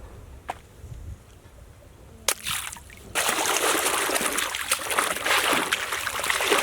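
A few light knocks of a toy being handled, then about three seconds in water starts splashing steadily as a muddy toy is rinsed under it.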